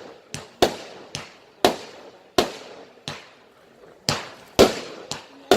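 Fireworks going off in quick succession: about ten sharp bangs, roughly one every half second, each followed by a brief echoing tail, some louder than others.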